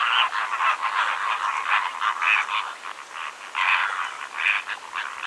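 A dense chorus of rasping animal calls, several a second, overlapping with no pause.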